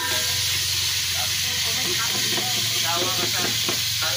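Oil sizzling steadily in a pot as chopped aromatics fry, stirred now and then with a metal utensil.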